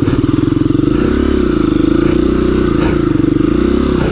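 A KTM 350 EXC-F dirt bike's single-cylinder four-stroke engine running at low to mid revs under load as it climbs a rutted trail, its pitch rising and dipping slightly as throttle and clutch are worked.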